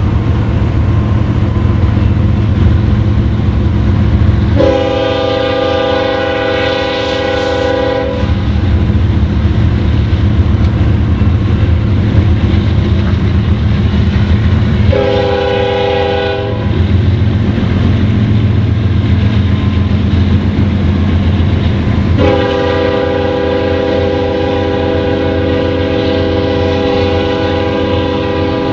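BNSF double-stack intermodal train passing, with a steady low rumble from its diesel locomotives and rolling cars. The lead locomotive's air horn sounds a chord three times: a long blast about five seconds in, a short one around fifteen seconds, and another long one from about twenty-two seconds that is still sounding at the end.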